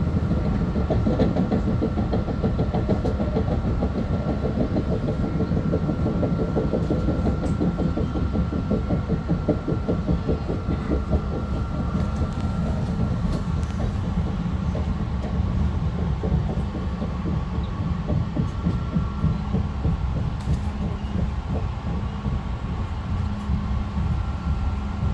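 Long Island Rail Road M3 electric multiple-unit train running on the rails, heard from inside the front car: a steady rumble of wheels on track with light rail clatter. It grows a little quieter toward the end as the train slows for a station stop.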